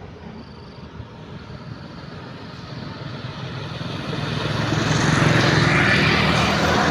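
A motor vehicle's engine growing louder over several seconds, loudest near the end, with a steady low hum under a wash of engine and road noise.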